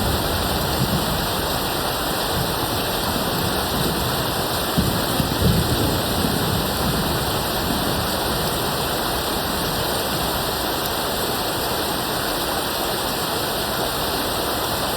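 Steady heavy rain, an even hiss, with faint low rumbles of distant thunder a few seconds in.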